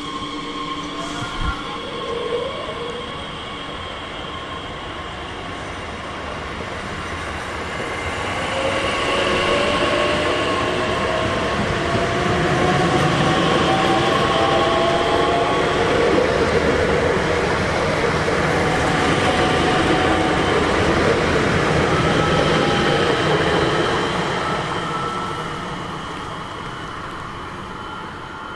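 A train passing through the station, growing louder over several seconds, holding for about fifteen seconds, then fading away. A whine rises in pitch while it builds.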